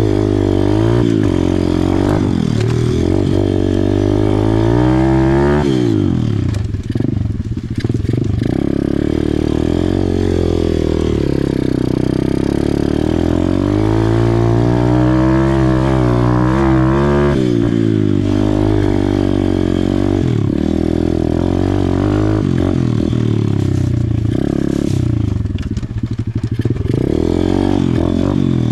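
Small pit bike engine being ridden hard, revving up and falling off again and again as the rider works the throttle and gears around a dirt track. The throttle is briefly chopped about six seconds in and again near the end.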